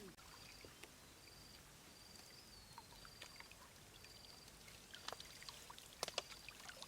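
Faint trickling and pouring water, with a faint high chirp repeating about once a second and a few sharp clicks or small splashes about five to six seconds in.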